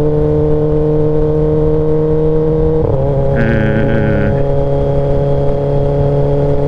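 Kawasaki ZX-10R inline-four motorcycle engine with an SC Project S1 exhaust running at a steady cruise while riding. Its pitch steps to a new level about three seconds in, as with a throttle change or gearshift. A brief voice sound comes just after the change.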